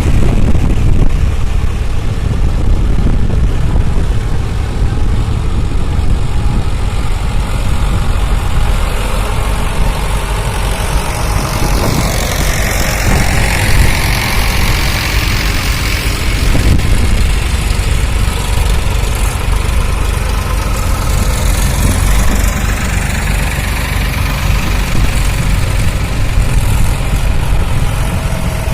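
Tractor engines running together in a steady, loud low rumble.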